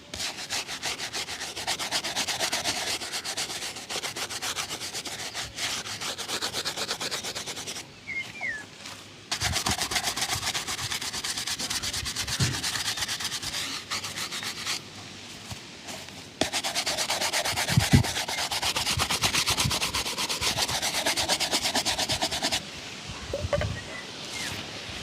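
A leather shoe being buffed during a shoe shine: fast back-and-forth rubbing strokes in three long bouts, separated by short pauses. A sharp knock comes about 18 seconds in.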